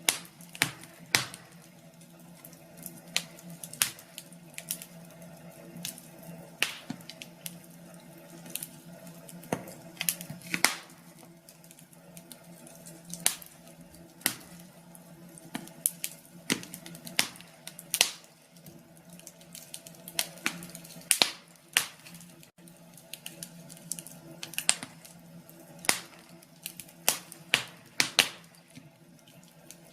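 Wood fire crackling, with sharp irregular pops, sometimes several in quick succession, over a steady low hum.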